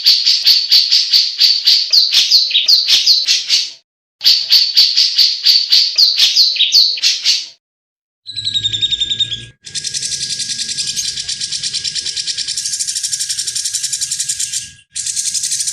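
Cucak jenggot (grey-cheeked bulbul) singing two bursts of fast, repeated chirping notes, each lasting about three and a half seconds. From about eight seconds in, a different continuous dense, buzzing trill follows, breaking off briefly near the end.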